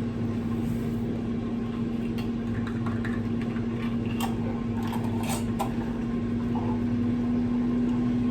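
Air fryer running mid-cook: a steady fan hum with one strong low tone, with a few light clicks over it.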